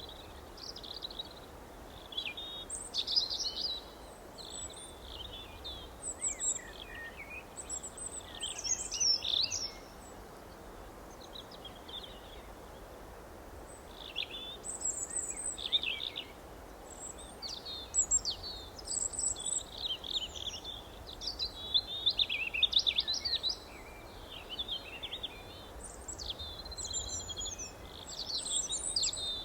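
Several songbirds chirping and singing in quick, high-pitched phrases that come in bursts with short pauses, over a steady background hiss.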